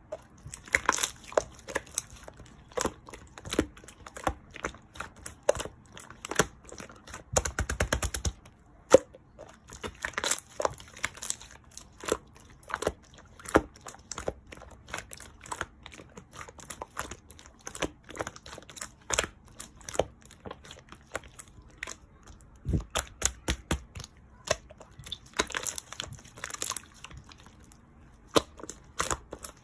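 Slime being squeezed and worked by hand, giving irregular sticky clicks and air-bubble pops, with a few runs of rapid crackling.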